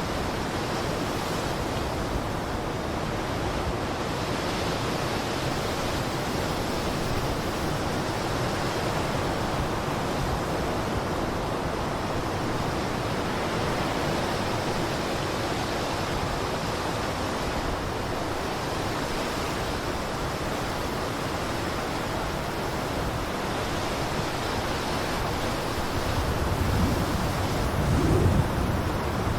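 Blizzard wind blowing in a steady rushing hiss, with a stronger, deeper gust swelling up near the end.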